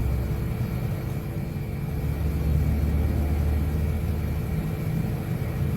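Steady low rumble with faint constant hum tones above it, like machinery or ventilation noise in a building; no distinct events stand out.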